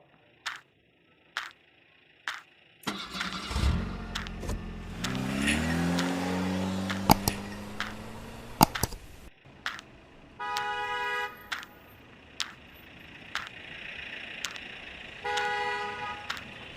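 Cartoon truck sound effects: an engine starts and revs up with rising pitch for several seconds, then a horn honks twice, each honk about a second long. Sharp clicks tick about once a second throughout.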